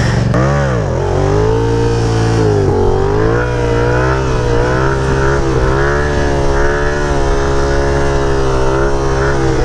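Yamaha FZ-07 stunt bike's parallel-twin engine during a wheelie: the revs jump and drop sharply in the first second as the front wheel comes up, then hold fairly steady on the throttle, wavering slightly, with a brief dip about three seconds in.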